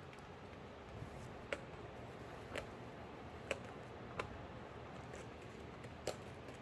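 Light, sharp clicks and taps, about six at uneven intervals over a faint room hum, from a poodle at play with a ball on a hard floor.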